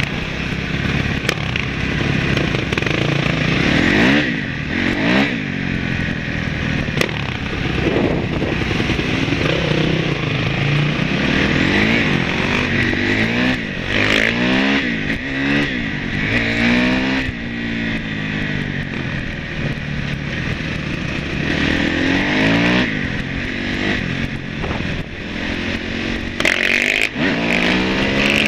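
Dirt bike engine heard from on board, revving up and dropping back again and again as the rider accelerates and shifts gears, with steady wind and road noise over the microphone.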